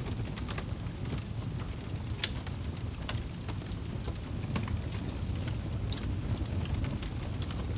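Wood fire burning in a fireplace: a steady low rumble of flames with frequent irregular crackles and pops of firewood.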